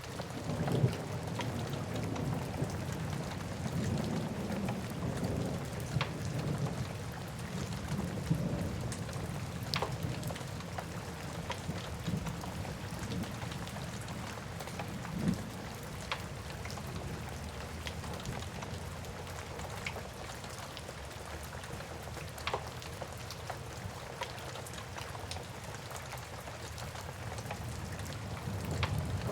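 Steady rain ambience with a low rumble underneath, heavier in the first half, and a sharp pop from a crackling wood fire every few seconds.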